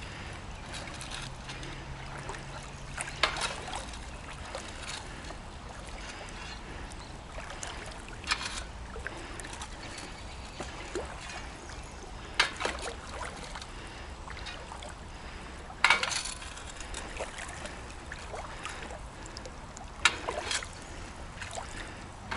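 Sharp splashes in shallow river water, five of them about four seconds apart, over a steady low wash of flowing river water.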